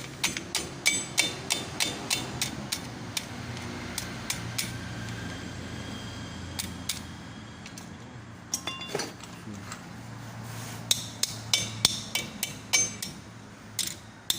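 A hammer striking metal in quick repeated blows, about three a second, each with a short metallic ring. The blows pause in the middle, then start again for a second run near the end.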